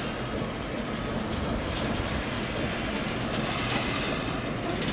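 Steady railway noise: a continuous low rumble and hiss, with a faint, thin, high squeal in short stretches.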